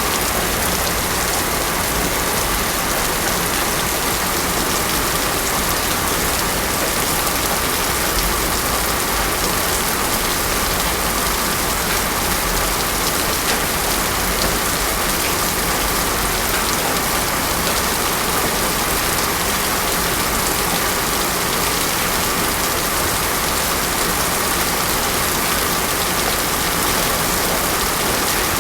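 Heavy rain falling steadily on a road, a dense even hiss.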